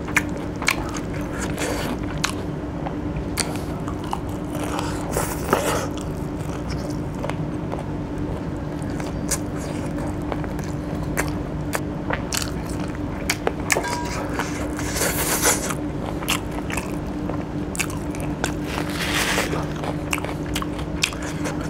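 Close-miked mouth sounds of a person biting and chewing chicken curry with rice: crunching and wet smacking, with many short clicks.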